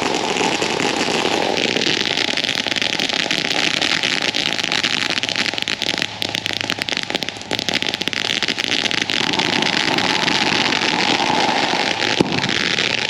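A long string of about a thousand firecrackers going off in rapid, continuous crackling pops, keeping a steady level throughout.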